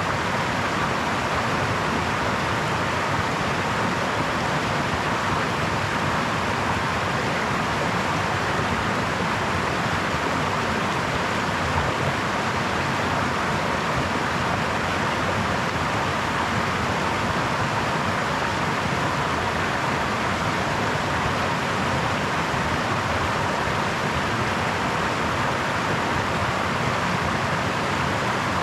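Brook water babbling and rushing over stones, a steady, even noise.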